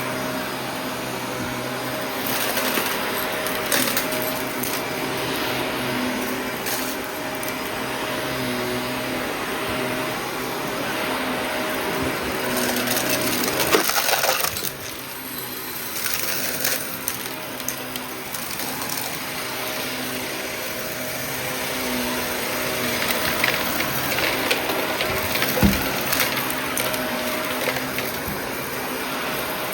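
Shark vacuum cleaner running steadily with a constant hum, crackling and clicking as it sucks up bits of debris from a small mess. A louder rattle about halfway through, after which the sound briefly drops.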